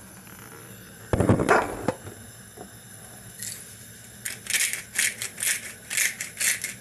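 A short clatter about a second in, then from about four seconds in a steady rhythmic rattling, about two strokes a second, as black pepper is shaken into a pot of water for boiling chicken.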